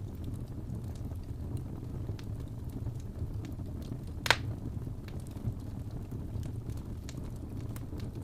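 Wood fire crackling in a fireplace over a steady low rumble, with scattered small crackles and one sharp, louder pop about four seconds in.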